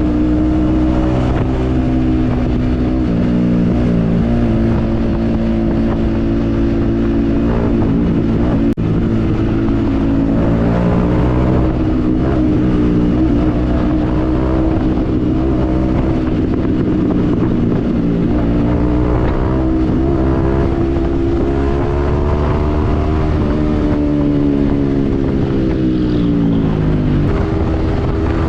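Yamaha MT-15's single-cylinder engine through an aftermarket Yoshimura exhaust, running under way. Its pitch drifts up and down with the throttle, falls steadily for a few seconds near the end as the bike slows, then climbs again.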